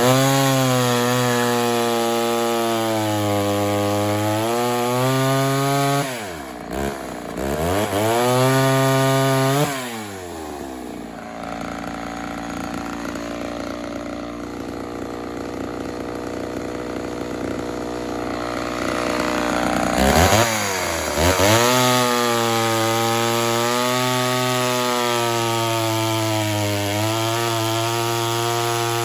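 Ported Poulan 245A two-stroke chainsaw cutting firewood at high revs, its pitch sagging under load in each cut. It drops off and revs back up around six seconds in, runs slower and quieter for about ten seconds in the middle, then revs up again and cuts on. The saw slows in the cuts because the wood is full of rocks.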